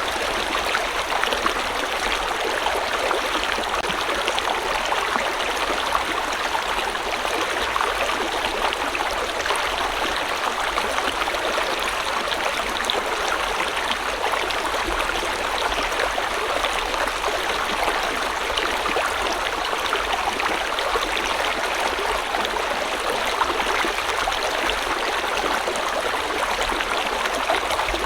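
River water flowing over rocks, a steady rushing and babbling with fine splashing texture.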